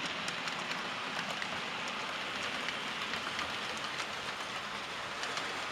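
OO gauge model trains running on the layout track: a steady rushing hiss of wheels and motors on the rails, with faint scattered clicks.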